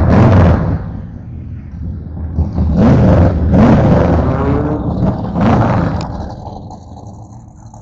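Car engine revved hard in loud bursts: one cutting off right at the start, a longer one about three seconds in and a short blip a little later, then dying down.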